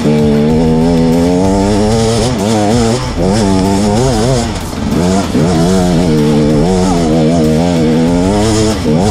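KTM 250 EXC two-stroke dirt bike engine revving up and down continuously as it is ridden over rough trail, the pitch rising and falling every second or so with short drops off the throttle.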